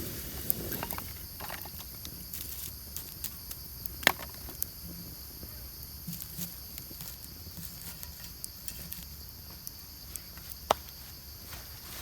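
Steady high insect chorus in a forest, with scattered small clicks and knocks and two sharper cracks, about four seconds in and near the end.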